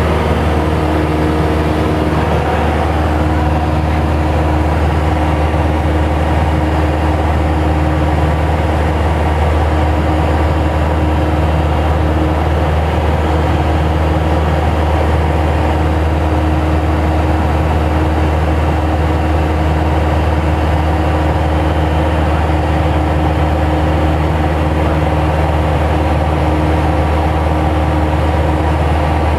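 Light aircraft's piston engine and propeller droning steadily at constant power.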